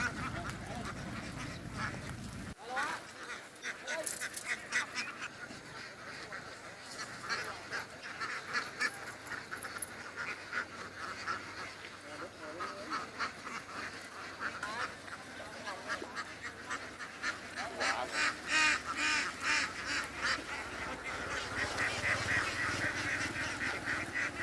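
A flock of ducks quacking and calling over one another, many short calls, thickest near the middle-to-end. A low rumble underneath stops abruptly about two and a half seconds in.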